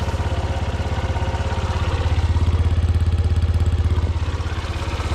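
1986 Suzuki RB50 GAG's warm 50cc four-stroke single-cylinder engine idling steadily with an even, fast pulse. Its level swells a little in the middle.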